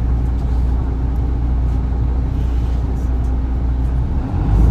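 Isuzu Erga PKG-LV234L2 city bus's six-cylinder turbodiesel running under way, heard from the rear seat over the engine, with a steady low drone. About four seconds in the engine note breaks and dips briefly, then comes back louder.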